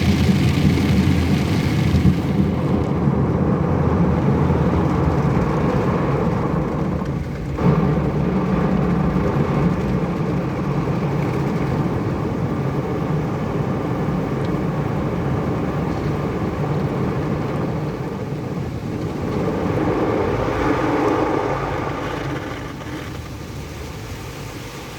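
Car wash heard from inside the car: a steady, loud rush of water spray and machinery over the body. It dips briefly about seven seconds in, swells again around twenty seconds, then eases off near the end.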